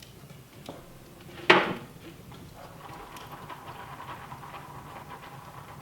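A single sharp clank of kitchenware, such as a pan or dish being set down, about a second and a half in. After it comes a faint, steady, high hum.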